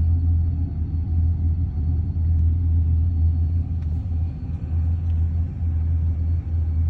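Steady low hum from a 1996 Oldsmobile 88, a sound like a running heater/AC blower motor although the blower is turned off, an unexplained noise loudest under the rear of the car and in the trunk. It wavers slightly in level, with a couple of faint ticks about four seconds in.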